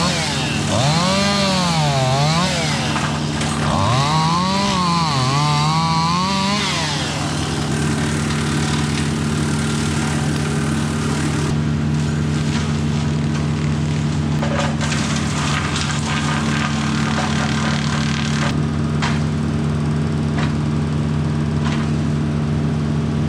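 An engine-driven wood-cutting machine runs at full throttle. For about the first seven seconds it repeatedly bogs down in pitch and recovers under load, then it runs on at a steady pitch.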